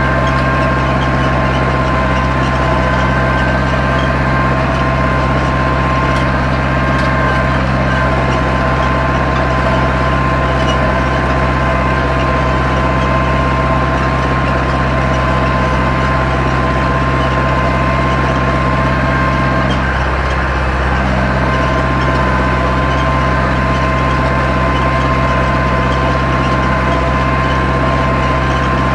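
Zetor 7245 tractor's diesel engine running steadily while pulling a plough, with a brief change in the engine note about twenty seconds in.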